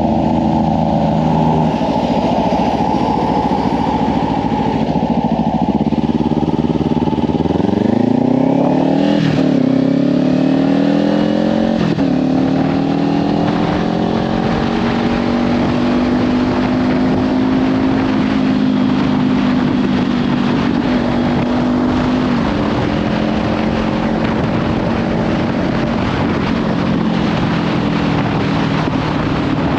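Kawasaki Ninja 500's parallel-twin engine through a Leovince slip-on exhaust, pulling through the gears: the revs climb, drop at an upshift about nine seconds in and again around twelve, then hold steady at cruise. Heavy wind noise on the microphone throughout.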